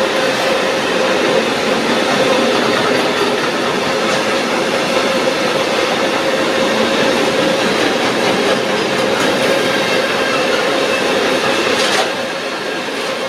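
A long train passing through the station without stopping: a steady noise of wheels on rails with a steady tone running through it. The noise drops off as the last car goes by about twelve seconds in.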